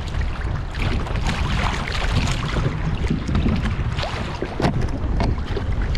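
Strong wind buffeting the microphone in a low, steady rumble, with choppy waves slapping and splashing against a kayak in rough sea.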